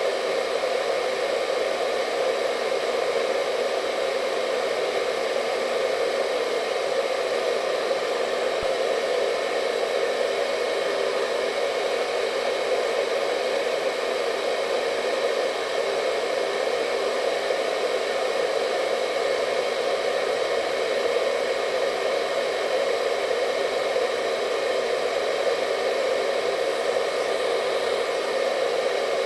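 Hair dryer running continuously: a steady blowing noise with a faint whine on top, unchanging throughout.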